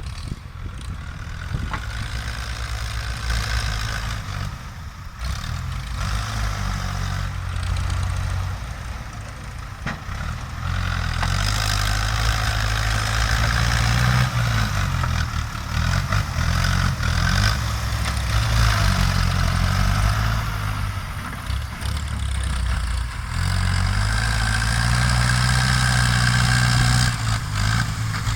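Ford New Holland farm tractor's diesel engine running under working load, its pitch rising and falling as the load changes, growing louder about eleven seconds in.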